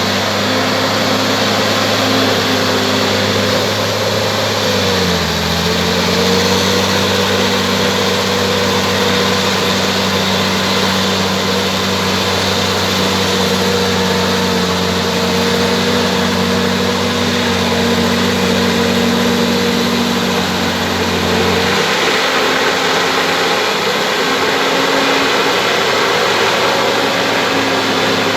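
Bulldozer's diesel engine running steadily; its pitch dips briefly about five seconds in, and its tone changes again a little past twenty seconds.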